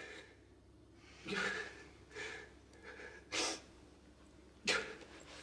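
A person's short, sharp breaths and sniffs, five in a few seconds, the loudest near the end.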